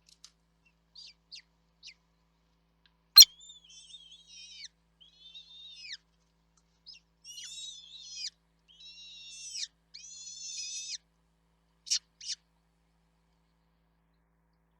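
Chicks in a nest giving harsh, high-pitched begging calls in a series of bouts, set off by one sharp loud chirp about three seconds in, with two short sharp chirps near the end.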